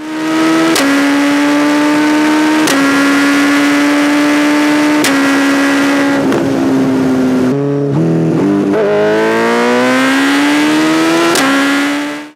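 Suzuki Hayabusa inline-four sport bike engine accelerating hard through the gears. Its pitch climbs in each gear and drops at each of several upshifts.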